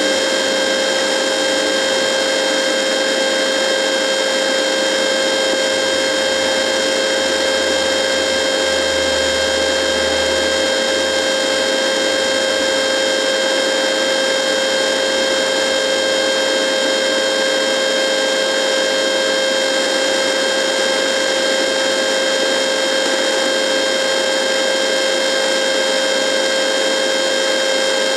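Radio buzz: a steady electronic drone of hiss and static with a fixed hum tone and several fainter higher tones, unchanging throughout.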